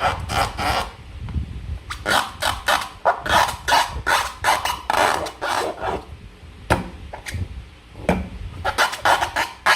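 Slime being squeezed and worked by hand, giving a run of short, irregular sticky squelches and crackles in quick clusters, with a brief lull about a second in and another near the end.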